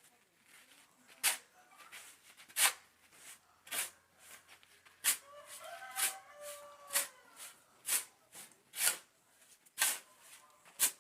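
Repeated short scrapes of a hand tool working a sand-and-cement mix, about one a second and uneven in spacing. A brief pitched call sounds in the background about six seconds in.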